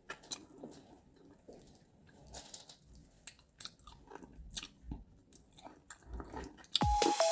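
Close-miked chewing and wet mouth sounds of someone eating rice and stew, with scattered soft clicks and smacks. Near the end, electronic dance music with deep falling bass hits starts abruptly.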